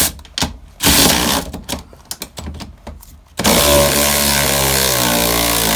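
Power tool with an 18 mm socket spinning out seat bolts: a short burst about a second in, then a steady run of about two and a half seconds that stops near the end.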